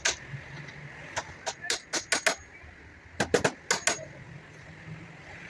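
Hand tool striking wood in quick runs of sharp taps, about five to seven strikes in each run, with short pauses between runs.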